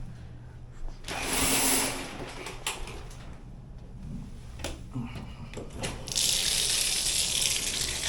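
Hot water tap running: a short gush about a second in, a few clunks, then a steady rush of water from about six seconds in, drawn to flush an air conditioner's condensate drain line.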